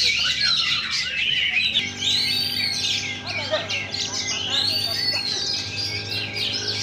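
Many oriental magpie-robins (kacer) singing at once in contest cages: a dense, overlapping chorus of whistled phrases, rising and falling arcs, and chattering. About two seconds in, a steady hum joins underneath.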